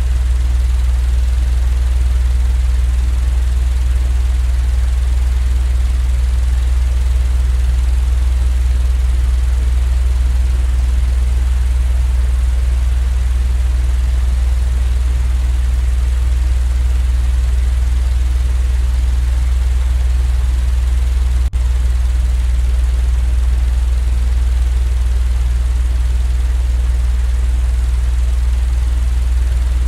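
Steady, unchanging low rumbling drone of a sleep-noise track, with a single brief click about two-thirds of the way through.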